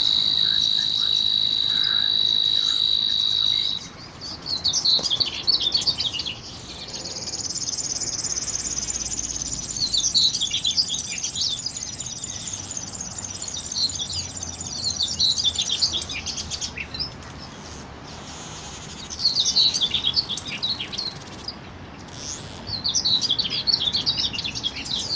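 A steady high insect drone that cuts off abruptly about four seconds in, followed by small birds chirping in quick twittering bursts. A second high insect buzz runs under the chirps through the middle of the stretch.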